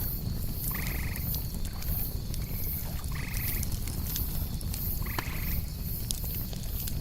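Campfire crackling with a low steady rumble and scattered sharp pops, over crickets chirping high and continuously. A short buzzy call sounds three times, about a second, three seconds and five seconds in.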